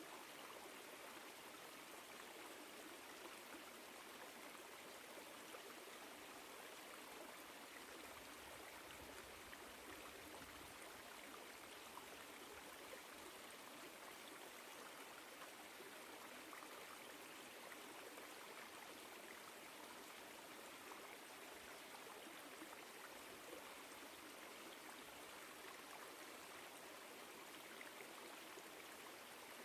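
Small woodland stream flowing, a faint, steady rush and trickle of water.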